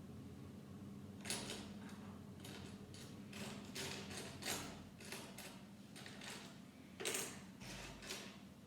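Loose plastic Lego bricks rattling and clicking as hands rummage through a pile of them, in a string of short bursts, the loudest about a second in and again near the end. A faint steady low hum runs underneath.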